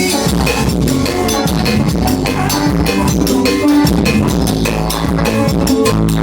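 Drum kit played to a band song, with bass drum and snare strokes in a quick, steady pattern over sustained bass and guitar notes.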